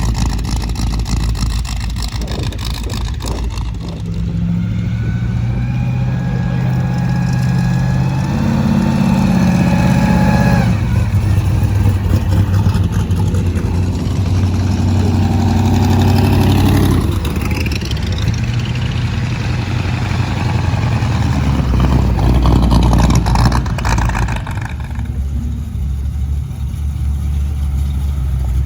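Car engines running and revving, rising and falling in pitch several times, with a sharp drop in revs just past the middle and a lower steady rumble toward the end.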